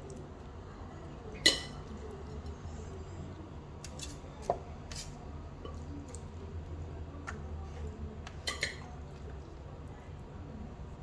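Kitchenware clinking a few times as chicken pieces are laid out in a tray, the loudest clink about one and a half seconds in, with a short ringing edge. A low steady hum from the running oven sits underneath.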